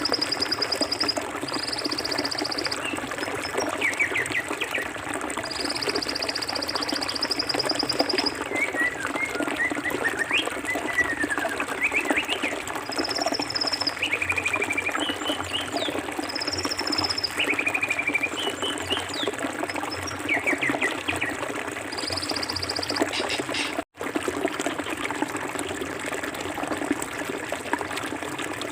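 Forest stream running steadily over rocks, with birds calling above it. A high trill recurs several times and there are short chirps. The sound breaks off for an instant about three-quarters of the way through.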